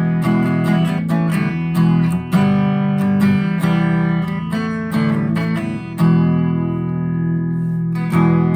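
Squier Telecaster electric guitar played through a Vox AV15 valve-and-analog amp on its clean channel: chords strummed and left ringing, with a new chord about every second or two.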